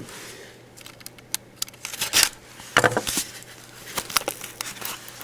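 Trading-card mail packaging being handled and opened: scattered crinkles, scrapes and sharp plastic clicks, loudest a little past the middle.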